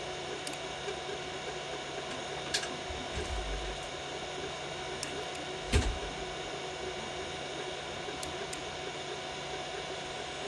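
Biqu BX 3D printer running a print at 120 mm/s: a steady hum of stepper motors and cooling fans, with a few sharp ticks and a dull thump just past halfway.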